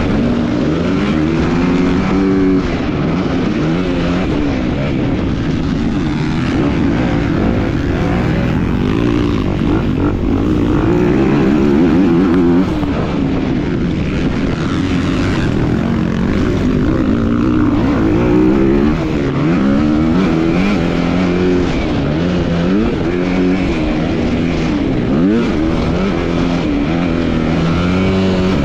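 250-class motocross bike engine being ridden hard, revving up and dropping back again and again as the throttle is worked and gears change, its pitch rising and falling every second or two.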